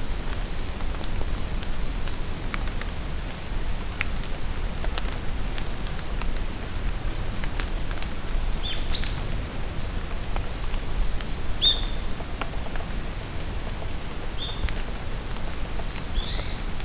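Steady rain in a forest, with drops pattering and ticking. Small birds call now and then over it: a high rising call about nine seconds in, short chirps and brief bursts of high twittering later.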